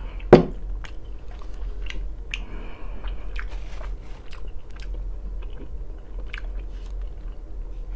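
A person chewing food close to the microphone, with many small mouth clicks. There is one sharp knock about a third of a second in.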